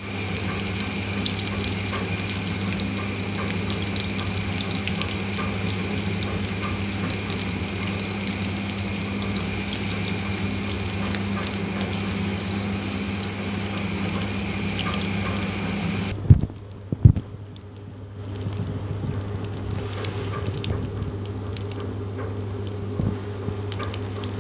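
Bitter gourd slices frying in a pan: a steady sizzle with scattered crackles over a low hum. About sixteen seconds in it changes abruptly, with two loud knocks, and a quieter sizzle follows.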